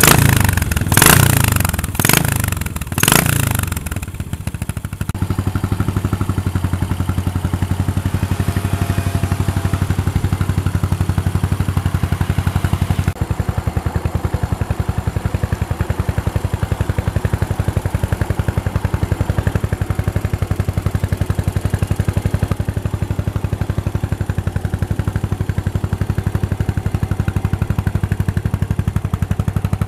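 Yamaha SR400 single-cylinder four-stroke engine, with an FCR carburettor and a Peyton Place muffler. It is blipped up in revs a few times in the first four seconds, then settles into a steady idle with an even, regular beat.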